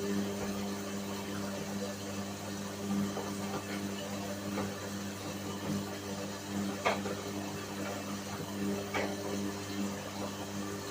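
Whirlpool washing machine running a wash cycle: a steady motor hum with a few light knocks, the sharpest about seven seconds in and again about nine seconds in.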